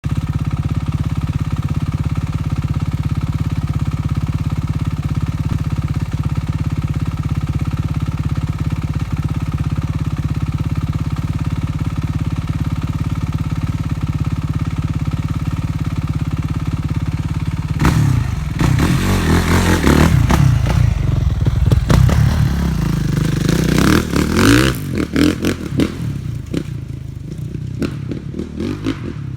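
Dirt bike engine idling steadily, then revving up and down repeatedly from about two-thirds of the way in, growing quieter near the end.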